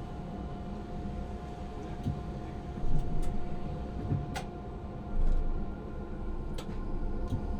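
Tram running, heard from the driver's cab: a low rumble from the running gear with a thin steady whine that stops about halfway through. Several sharp clicks are scattered through it.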